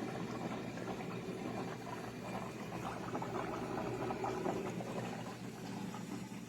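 Liquid bubbling and gurgling steadily as a small submersible utility pump circulates water through a tankless water heater to flush it.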